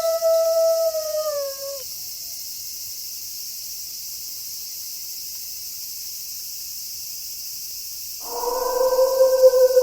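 Wolf howling: a long, steady howl that slides down in pitch and ends about two seconds in. A steady high hiss follows, and near the end another, lower howl begins and holds.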